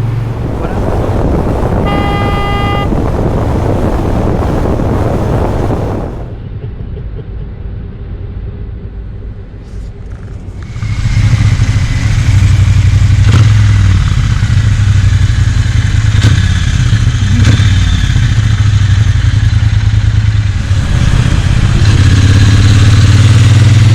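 Triumph Bonneville T120's 270-degree-crank parallel twin heard on the move through a decatted Motone Customs X-pipe and Vance & Hines pea-shooter silencers, with wind and road rush. A brief pitched tone sounds about two seconds in. The engine eases off about six seconds in, then pulls again from about eleven seconds, its deep exhaust note loud from there on.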